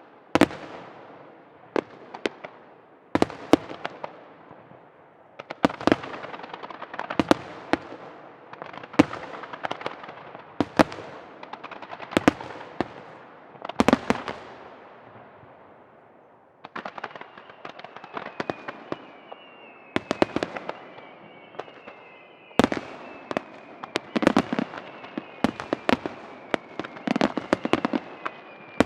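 Aerial firework shells bursting one after another in sharp booms with crackling tails, pausing briefly past the middle and then bursting in quicker succession. Through the second half a thin high whistle falls slowly in pitch.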